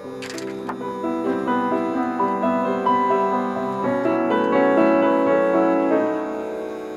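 Gentle solo piano music, notes layered into chords that swell toward the middle.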